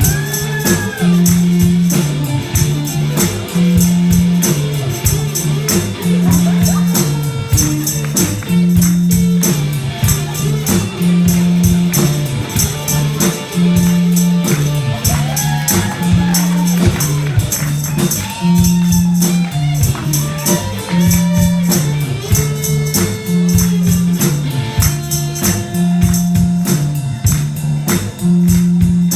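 Live rock band playing: a low bass riff repeating about every two seconds under a steady drum beat, with guitar lines bending in pitch above it.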